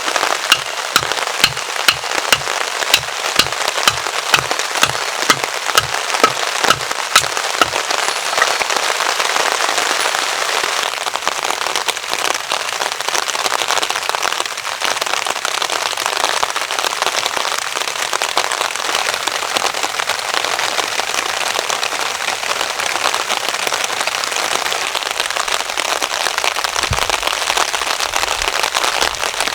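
Heavy rain pattering steadily on a tarp. For the first eight seconds a run of sharp knocks, about two a second, sounds over the rain; a single low thump comes near the end.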